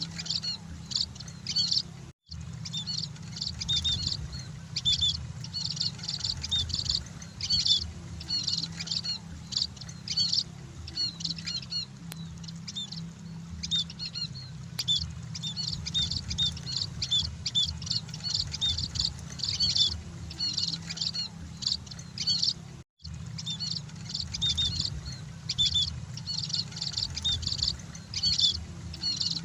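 Munias (emprit) chirping continuously, many short high calls overlapping as from a flock, over a steady low hum. The sound cuts out for an instant twice, about two seconds in and again near the 23-second mark.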